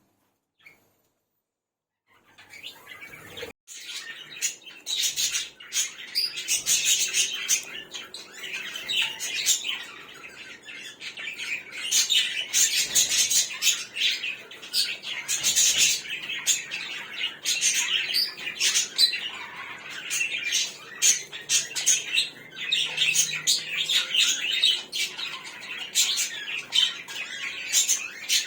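Small cage birds, budgerigars and zebra finches, chirping and chattering busily over one another, starting about two seconds in.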